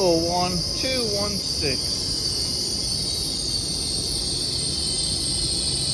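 High-pitched brake squeal from an LNER train slowing into the platform, a steady ringing squeal of several high tones held at an even level: squeaky brakes.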